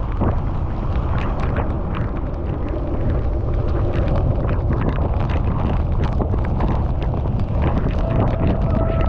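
Wind buffeting the camera microphone on a bicycle ride through heavy rain, with many sharp ticks of raindrops hitting close by. A steady pitched tone comes in near the end.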